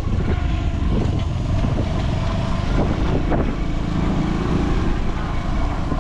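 Motorcycle engine running on the move, a steady, dense low sound with light clicks and knocks over it.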